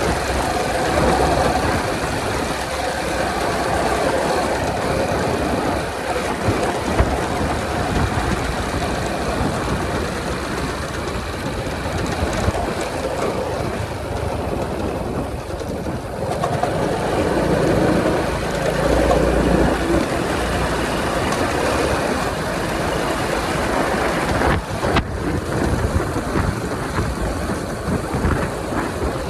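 Wind and road noise of a Honda 125 motorcycle riding at highway speed, a steady fluctuating rush that swells and eases.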